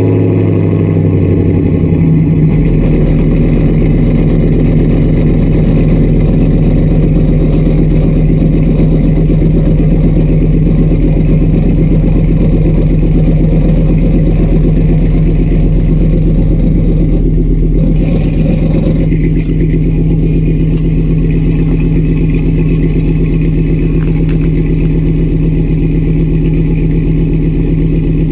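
Dodge Dakota R/T's 5.9 L V8 idling just after a cold start in sub-zero cold, through shorty headers, no catalytic converters and a Hooker Aerochamber muffler. The idle drops and settles about two seconds in, then runs steady, with a slight change about two-thirds of the way through.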